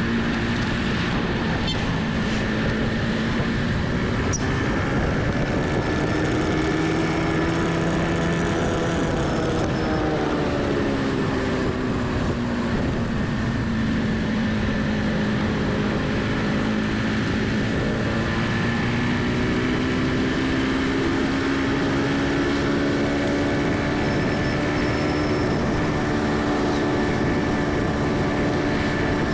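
Motorbike engine running on a ride, its pitch rising and falling slowly as the bike speeds up and slows down, over steady wind and road noise.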